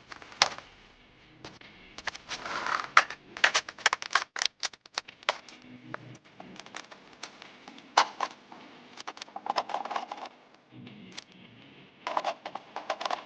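Irregular knocks, clatter and scraping of junk being handled and moved, with sharp hits coming thick and fast through the middle and again near the end.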